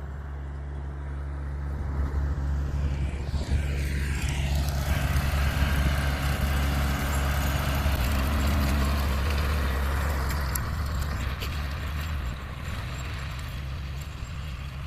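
Tractor engine and bush hog rotary mower running. The sound grows louder over the first few seconds and fades again near the end as the tractor passes by, under a steady low engine hum.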